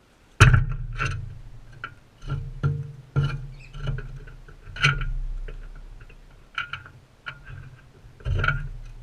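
Plucked guitar music starting suddenly about half a second in: a slow run of single low notes, each ringing out before the next.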